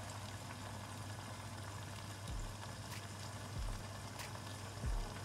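Okra sabzi cooking in oil in a covered pan, a steady soft sizzle and bubble, with a soft low thump about every second and a quarter.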